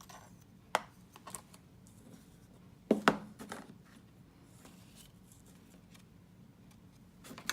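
Craft supplies handled on a tabletop: a few light clicks and taps, and a sharp double knock about three seconds in, as the embossing powder is brought in.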